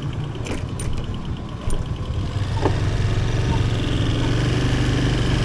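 Motorcycle engine running steadily, getting louder about halfway through, with a few sharp clicks in the first two seconds.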